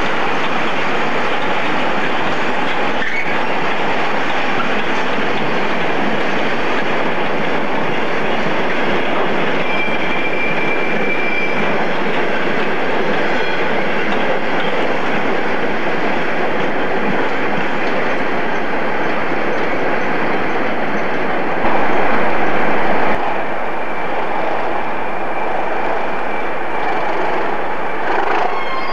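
Freight train wagons rolling past on the rails, a steady rumble and clatter of wheels, with a faint brief wheel squeal about ten seconds in. About two-thirds of the way through there is a sudden louder low rumble lasting about a second and a half.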